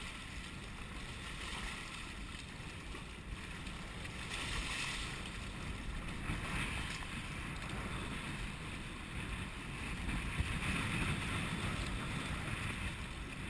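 Wind buffeting the microphone in a steady low rumble, with water rushing and splashing against a sailing kayak's hull as it moves under sail.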